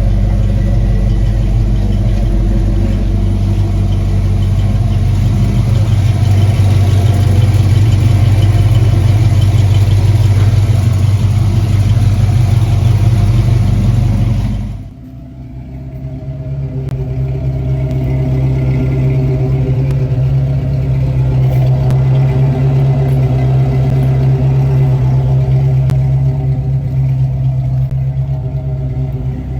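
A 1982 Mustang GT's V8 running steadily through a Flowmaster exhaust with tailpipes. About halfway through, a cut leads to a second take that starts briefly quieter, with the engine note a little higher.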